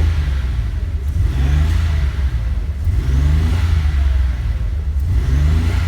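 Nissan 280ZX's turbocharged L28ET straight-six being revved in a series of quick blips, each rising then falling in pitch. It is misfiring after years of sitting on old fuel, which the owner reckons leaves it running on about five cylinders, maybe four.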